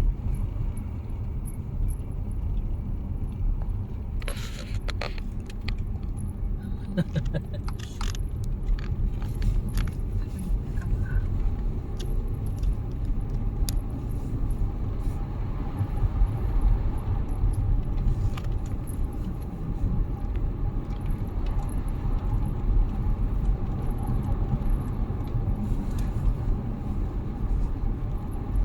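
Car cabin road noise while driving: a steady low rumble of engine and tyres. About four to eight seconds in there is a short run of light clicking and jangling.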